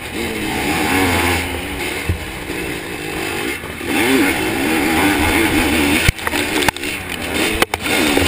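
Zabel 700 two-stroke sidecar-cross engine revving up and down as the throttle opens and closes, with a few sharp knocks or breaks in the sound near the end.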